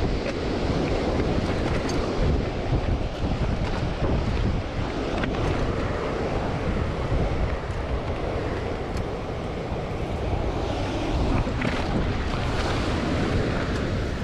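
Strong wind buffeting the microphone: a steady, gusty low-pitched rush with no break, with a few faint clicks.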